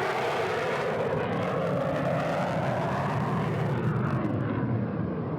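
Jet aircraft engines running at high power as a plane passes, a steady rushing noise with a whine that climbs and then drops away a little past the middle.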